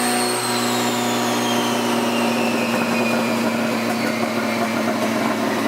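Turbocharged B20V Integra on a chassis dyno just after a full-power pull, winding down. A high whine falls steadily in pitch over about three seconds over a steady drone.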